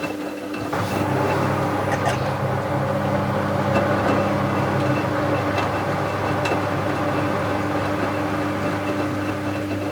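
Bauknecht WA 7778 W front-loading washing machine's drum motor picking up speed about a second in, then running at a steady speed with an even hum and a few light clicks. The drum bearing is already damaged at this stage, though not yet badly.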